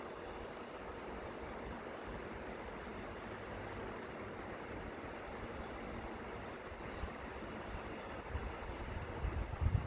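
Seomjin River water flowing in a steady rush. Low gusts of wind hit the microphone from about seven seconds in.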